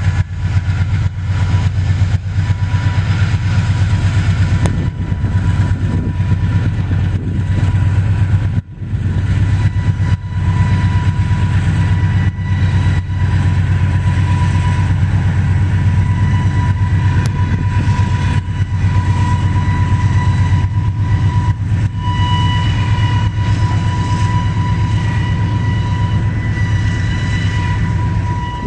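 Freight train cars rolling past at a grade crossing: a loud, steady low rumble with a fast even clatter of wheels on rail, and a thin steady high ring over it. The sound dips briefly about a third of the way through, then carries on.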